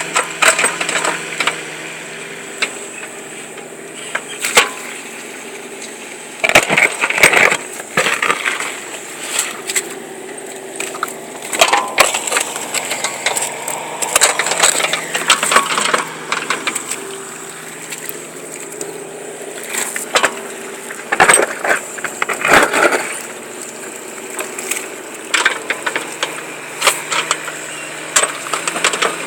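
Repeated crunching and cracking impacts in clusters, over the steady hum of a running engine.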